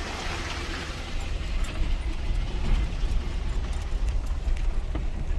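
Vehicle cabin noise while driving slowly up a rough dirt trail: a steady low engine and tyre rumble, with scattered small rattles and knocks.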